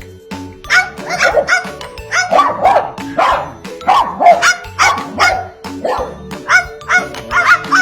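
Repeated dog-like barks, loud and short, coming about once a second after the first second, over background music.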